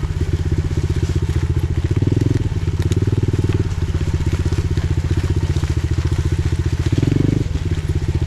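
Pit bike's single-cylinder engine running at low speed with a steady firing pulse, the throttle opened briefly about two seconds in, around three seconds in and again about seven seconds in.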